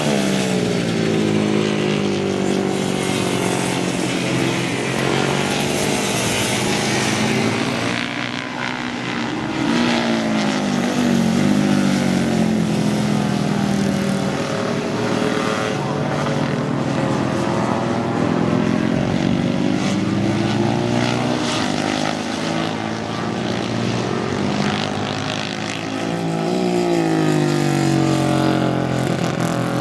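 Vintage racing motorcycle engines running hard at high revs, their pitch rising and falling repeatedly as bikes accelerate, shift and sweep past.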